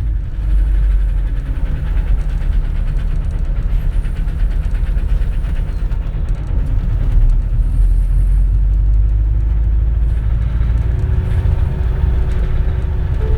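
Inside a 2004 compressed-natural-gas city bus while it runs: a steady low rumble from the engine and the road.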